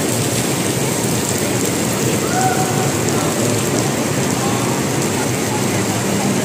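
Heavy downpour of rain falling steadily on the road and pavement, an even, unbroken wash of noise.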